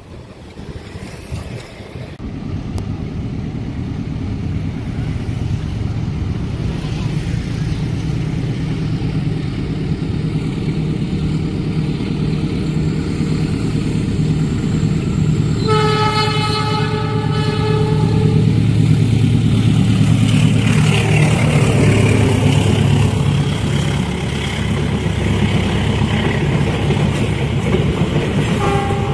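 Train approaching and passing, its diesel locomotive's engine rumbling louder as it nears. The locomotive's horn sounds once for about two seconds halfway through, followed by the rolling noise of the train going by and a brief toot at the end.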